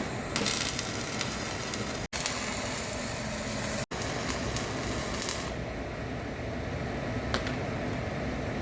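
Electric arc welding on heavy steel plate: a crackling, sizzling hiss in short clips broken by abrupt cuts. It turns duller and quieter about halfway through.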